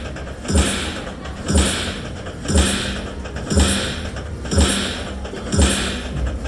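Poker machine sound effects: a thump with a short chime-like burst, repeating evenly about once a second.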